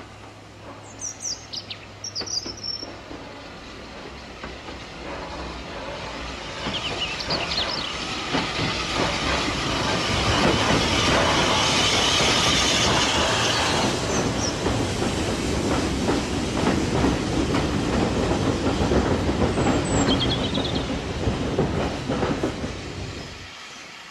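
A train passing close by, its wheels clattering over the rail joints, growing louder over several seconds, with a few high wheel squeals near the start. The sound cuts off suddenly near the end.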